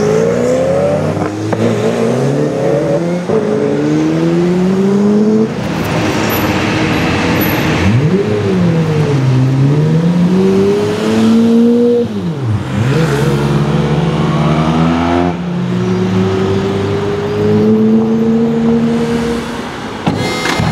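Lamborghini Aventador's V12 engine through a Capristo aftermarket exhaust, loud as it accelerates: its pitch climbs, breaks, and drops back several times as it shifts up through the gears. Twice in the middle it falls sharply and swoops back up, and it ends with long, slow climbs.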